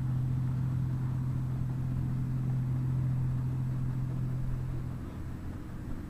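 A steady low engine hum over a rumble. Near the end it drops a little in level and its pitch steps up slightly.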